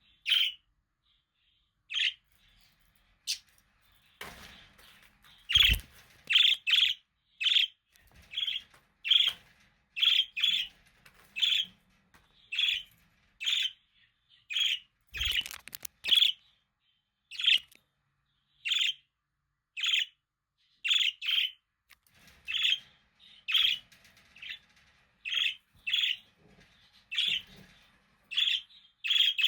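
Budgerigar calling with short, sharp chirps, a few at first and then a steady run of about one or two a second. Two soft low knocks come in among the chirps, one about six seconds in and one about fifteen seconds in.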